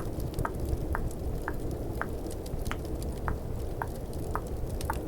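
Mouth tongue clicks, about two a second in a steady rhythm, over a steady low rush of snowstorm ambience and the fine crackle of a fireplace.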